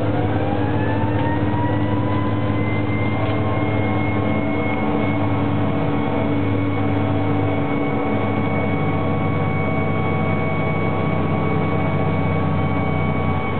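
Fire engine siren winding up in pitch at the start, then held at one steady high pitch, over the truck's steady engine drone.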